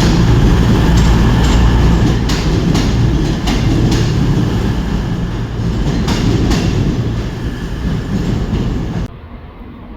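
CrossCountry Class 221 Voyager diesel multiple unit moving through the station: a heavy engine drone with repeated wheel clicks over rail joints. The sound cuts off suddenly about nine seconds in.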